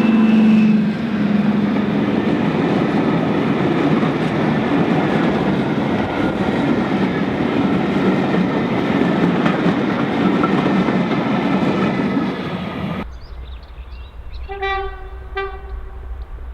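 Diesel locomotive horn dying away about a second in, followed by the loud, steady rumble of a diesel locomotive and its train running past. After an abrupt cut near the end, two short, higher-pitched horn toots.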